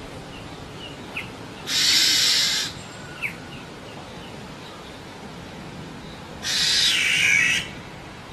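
Black-naped oriole giving two harsh, raspy calls about a second long each, the second about five seconds after the first, with a few short, falling chirps in between.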